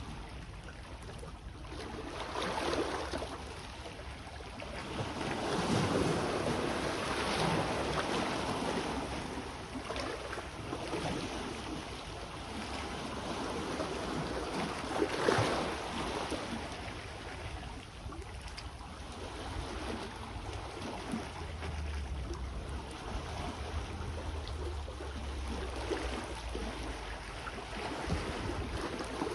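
Sea waves washing in, the surf swelling and fading every few seconds, with a low rumble of wind on the microphone partway through.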